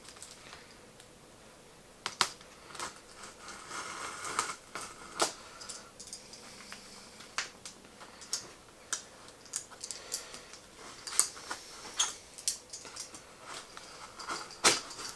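Cardboard shipping box being cut open and handled: irregular sharp clicks, scrapes and rustles of tape and cardboard, starting about two seconds in, with the loudest snap near the end.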